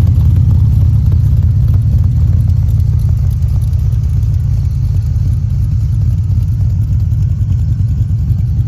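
The 6.3-litre Chevrolet stroker V8 in a Dax AC Cobra replica idling with a low, steady rumble and no revving.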